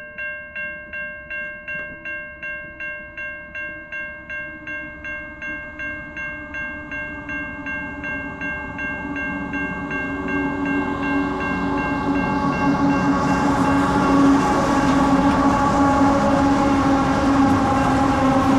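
Railway level crossing warning bell ringing about twice a second while a diesel-hauled freight train approaches. The train's rumble and engine tones grow louder from about ten seconds in and drown out the bell as the locomotives pass.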